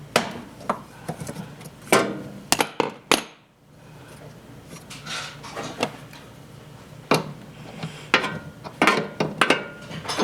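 Irregular metallic clinks and knocks of hand tools and metal parts being handled while a washing machine's drive motor is loosened on its mount.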